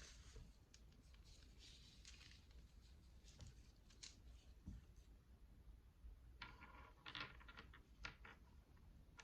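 Faint handling of prayer beads with gloved hands: soft rustling, then a quick run of small clicks with a slight ring about two-thirds of the way through.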